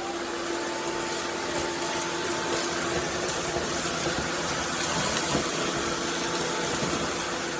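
SunSare X11 cordless stick vacuum running steadily: a motor whine over the rush of air.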